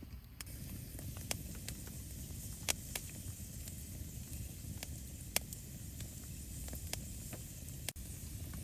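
Wood fire crackling: sharp, irregular pops every half second or so over a steady low rumble.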